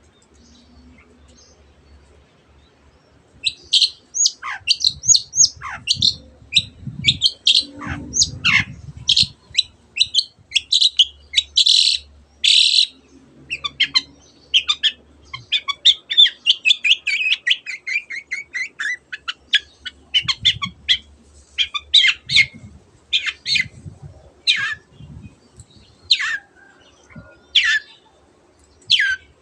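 Long-tailed shrike (cendet) singing a fast string of sharp chirps and notes, its song mixing in mimicked calls of other birds such as the canary. It starts about three seconds in, with a rapid descending chattering run partway through.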